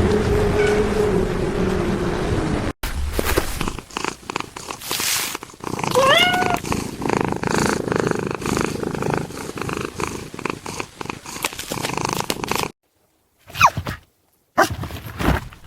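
A steady drone, then after a sudden cut a cat purring in rapid pulses, with a short rising meow-like call about six seconds in and a couple of brief calls near the end.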